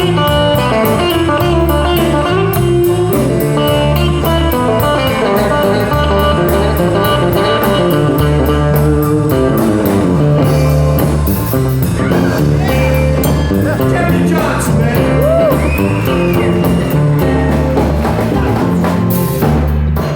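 Live blues band playing over a steady bass line and drum beat.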